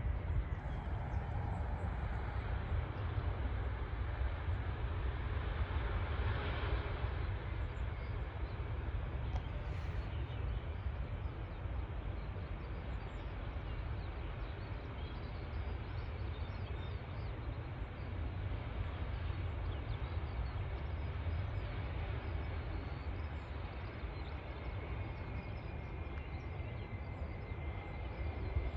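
Outdoor airport ambience: steady wind rumble on the microphone with a distant jet aircraft engine noise, whose faint high whine comes up in the second half.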